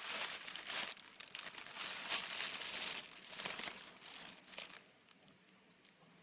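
Crinkling and rustling, like something being crumpled or handled, in uneven bursts for about five seconds before stopping.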